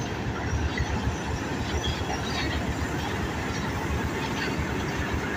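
Passenger train coaches rolling slowly along the station track: a steady low rumble of wheels on rails, with faint short wheel squeals now and then.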